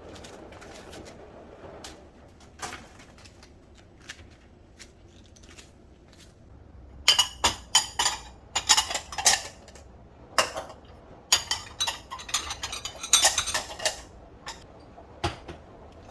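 Metal cutlery and dishes clinking as they are handled. Scattered light clicks come first, then two dense runs of clatter, about seven and about eleven seconds in.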